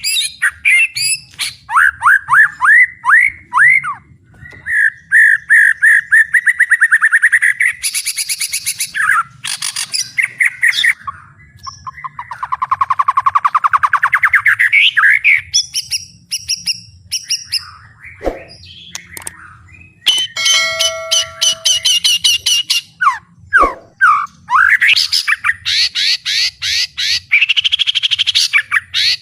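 White-rumped shama (murai batu) singing loudly in a fast, varied run of trills, rattles, sweeping whistles and harsh notes, with short pauses between phrases. It sings in its full song with mimicked fill-in phrases (isian).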